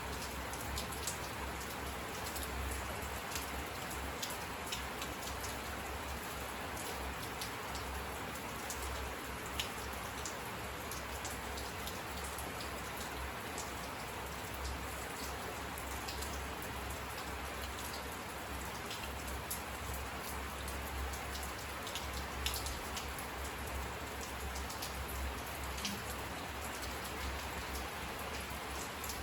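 Steady rain falling, with separate drops ticking sharply on a nearby surface now and then.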